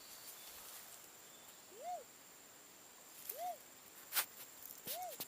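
A wild dove calling: a single hooting note that rises and falls, given three times about a second and a half apart. A few faint clicks come near the end.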